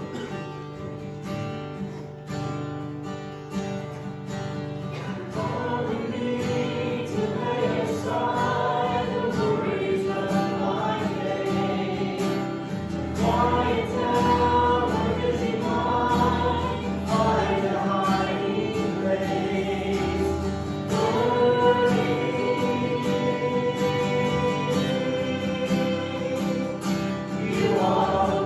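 Worship music: strummed acoustic guitar and band with group singing that enters about five seconds in, and a deeper bass joining around the middle.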